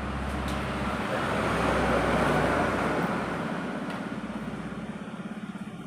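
Motorcycle engine running in a workshop, swelling louder about two seconds in, then easing back toward idle.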